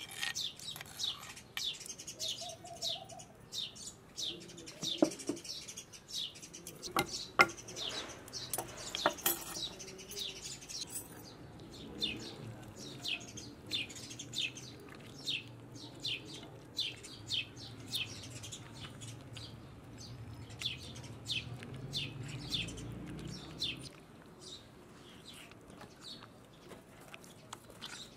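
Small birds chirping in quick, short repeated chirps throughout. A few sharp clicks come about seven to nine seconds in, and a soft low squishing runs from about twelve to twenty-four seconds in as chicken is mixed by hand in a creamy marinade.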